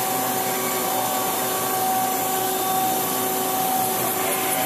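Steady whirring machinery noise with a hiss and two faint steady tones running through it, even in level throughout.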